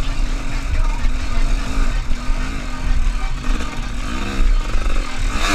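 A motor vehicle engine revving up and down several times over a steady low rumble.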